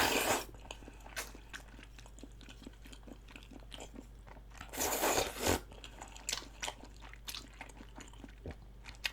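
Eating close to the microphone: chewing a meal of spicy chicken feet and glass noodles, with many small wet clicks and crackles. Two longer slurping noises come at the start and about five seconds in.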